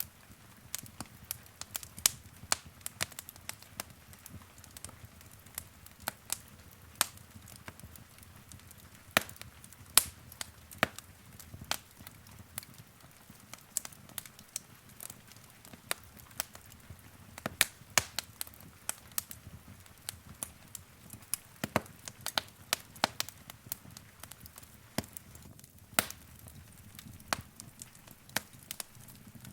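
Wood fire crackling in a fireplace: irregular sharp pops and snaps, a few of them loud, over a soft low hiss of burning.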